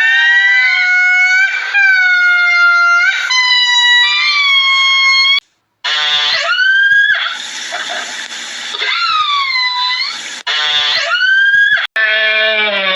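A series of long, high-pitched animal calls, most of them sliding down in pitch, each lasting a second or two with short breaks between.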